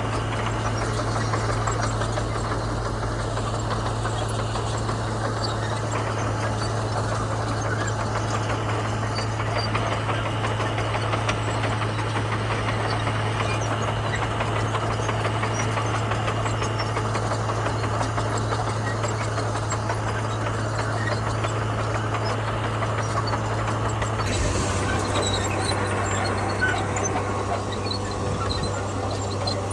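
Komatsu bulldozer's diesel engine running steadily, a constant low drone. The sound shifts abruptly near the end.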